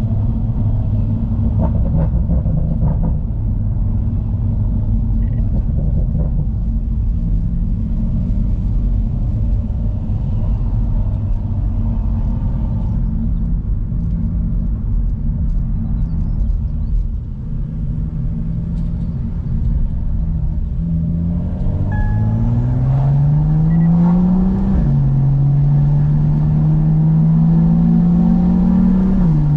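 BMW M2's N55 turbocharged straight-six breathing through a Remus aftermarket exhaust, droning steadily at a constant speed. About 21 seconds in it revs up under acceleration, the pitch dropping at an upshift about 25 seconds in, then climbing again to another upshift near the end.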